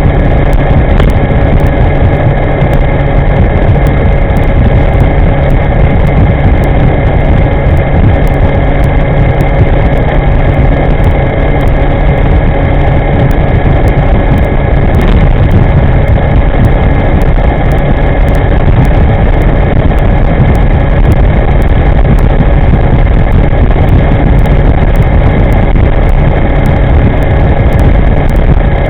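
Wind rushing over the microphone of a moving electric scooter: a loud, steady low rumble, with a few faint steady whining tones above it.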